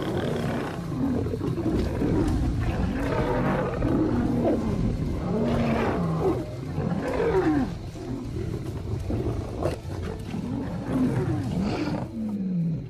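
Lions fighting: loud, overlapping growls, snarls and roars from several animals.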